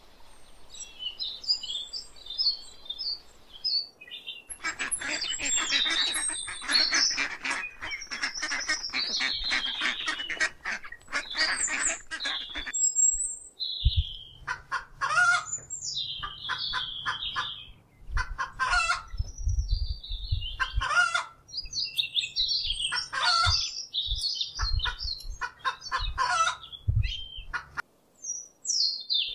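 Birds calling: a run of short, high chirping calls. The sound changes abruptly about four seconds in and again about halfway through, and a low rumble runs under the second half.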